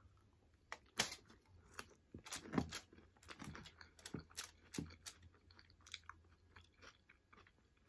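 Close-miked chewing of a mouthful of nachos: tortilla chips crunching between the teeth in an uneven run of crisp crackles, loudest in the first few seconds and thinning out toward the end.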